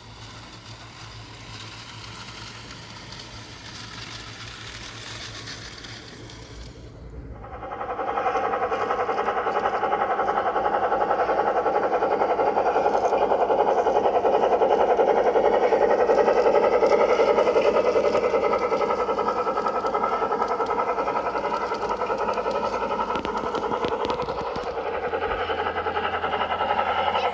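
G-scale garden railway model train running on its track, a quieter running sound for the first seven seconds, then a sudden change to a loud, steady running sound from about seven seconds in.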